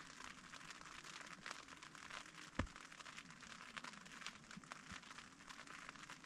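Faint light rain pattering on a tent's fabric: a dense, even scatter of small drop taps, with one sharper tap about two and a half seconds in.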